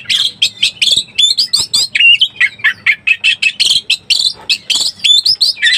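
Oriental magpie-robin (kacer) in breeding condition singing a fast, unbroken stream of varied whistles, chirps and harsh rasping notes.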